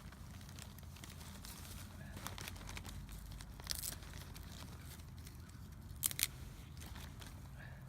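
Dry bark tinder being handled and torn, an irregular crackling and crinkling with scattered clicks. Two sharp sounds close together about six seconds in are the loudest.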